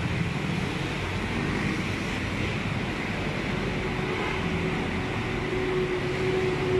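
Steady running noise of a car engine idling with its air conditioning on, after a Freon recharge; a faint steady hum comes in about halfway.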